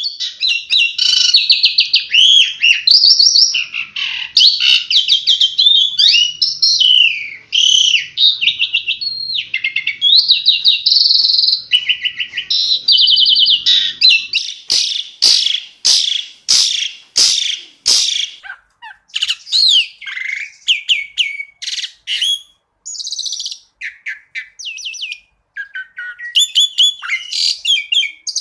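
Asian pied starling (jalak suren) singing a long, varied song of fast trills, whistled notes and rapid repeated notes, with a run of sharp, separate downward-sweeping notes about halfway through.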